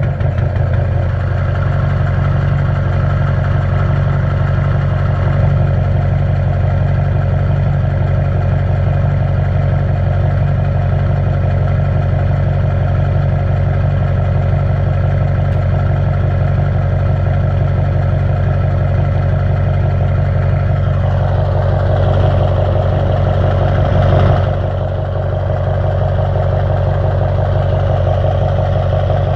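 A vehicle engine idling steadily just after a cold start. About three quarters of the way through it grows a little louder and brighter for a few seconds, then drops back to a slightly quieter idle.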